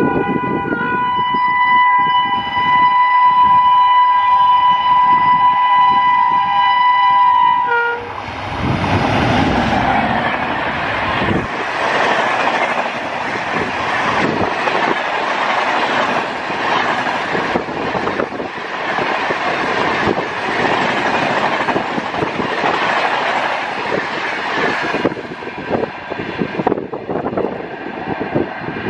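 Indian Railways express train's horn sounding a long steady blast for about eight seconds, then the train rushing past at high speed with rhythmic clatter of wheels over rail joints, thinning out a few seconds before the end.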